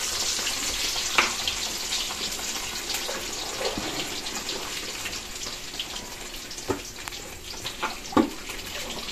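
Kikiam deep-frying in hot oil in a wok: a steady sizzle that slowly quietens, with a few sharp knocks of a metal spatula against the pan, the loudest about a second in and near the end.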